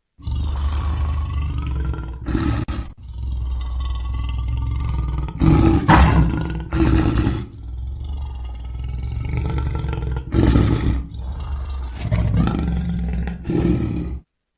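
Lion roaring: a continuous deep rumble with about five louder roars rising out of it, cutting off abruptly near the end.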